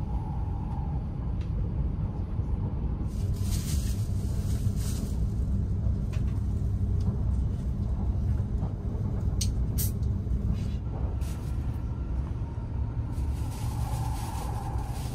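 Steady low rumble of a Hokuriku Shinkansen Kagayaki bullet train running, heard inside the passenger cabin, with a few brief hissing rushes.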